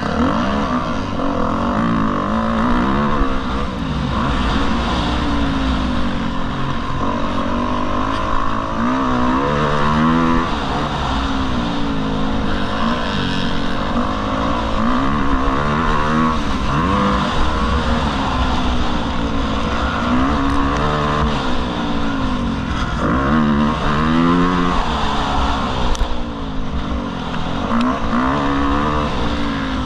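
Motocross bike engine revving hard and easing off again and again, its pitch rising and falling every second or two as it accelerates and shifts on the track.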